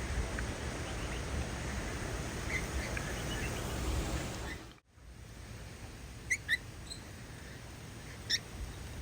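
Small birds chirping in short, high calls, a few scattered single chirps. In the first half wind rumbles on the microphone and the chirps are faint. After a brief dropout about halfway, the background is quieter and the chirps stand out clearly.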